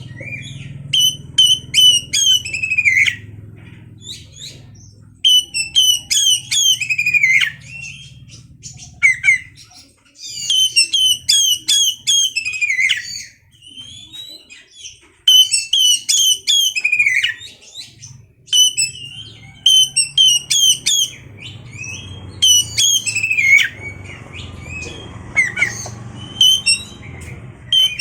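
Oriental magpie-robin (kacer) singing in repeated phrases of rapid high chips and whistles. Each phrase ends in a falling whistle, with short pauses between phrases, over a low steady hum.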